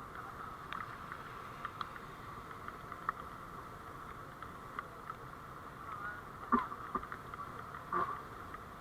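Steady running noise of a vehicle on the road, picked up by a dashcam, with scattered light clicks and two louder knocks in the second half.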